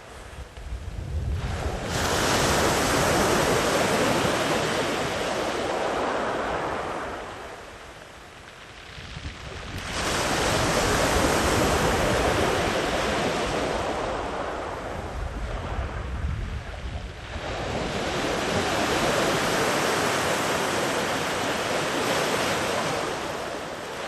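Sea waves breaking and washing far up the beach. Three surges come about eight seconds apart, each rising suddenly into a loud rush and slowly fading as the water draws back.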